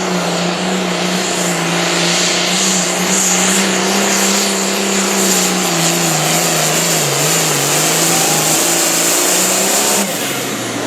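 A pulling vehicle's engine at full throttle, loud and steady while it drags the weight sled down the track. Its pitch sags in the middle as the load builds, picks up again, then drops abruptly near the end as the throttle is cut.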